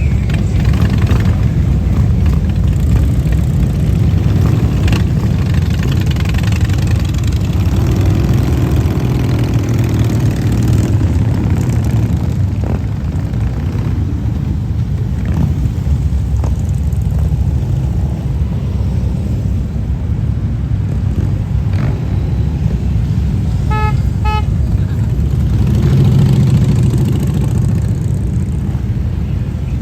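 Motorcycles of an escort procession running and passing in a steady engine rumble. About three-quarters of the way through, a vehicle horn gives two short toots.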